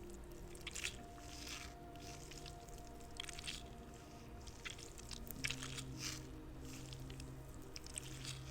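Squishy spider fidget toy being squeezed in the hands, in short irregular bursts every second or two.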